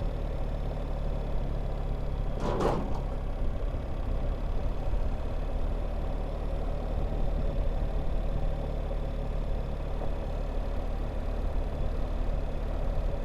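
BMW R1300GS boxer-twin engine running steadily at low revs under way, with wind and road noise around it. A brief, louder noise cuts in about two and a half seconds in.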